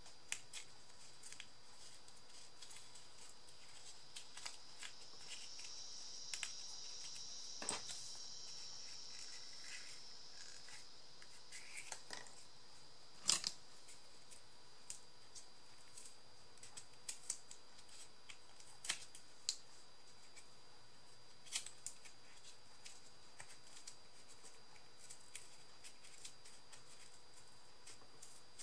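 Scattered snips and clicks of scissors cutting paper or chipboard, with small taps of handling between them and a soft hiss for a few seconds near the start.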